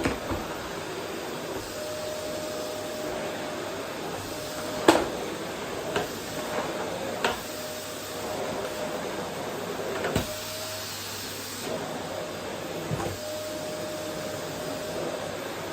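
Vacuum cleaner running steadily while vacuuming a wooden floor, with a faint whine that comes and goes. Several sharp knocks sound over it, the loudest about five seconds in.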